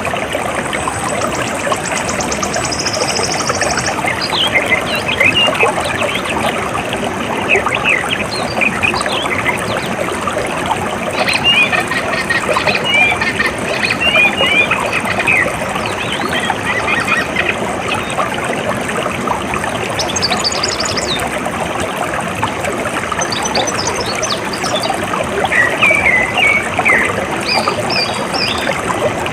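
Flowing water running steadily, with birds chirping over it in several short bursts of calls and a few rapid high trills.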